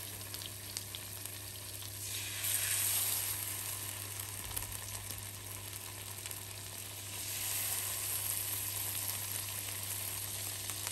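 Salmon fillets frying in foaming butter in a non-stick pan, a steady sizzle that swells louder about two seconds in and again around seven seconds as more fillets are laid in.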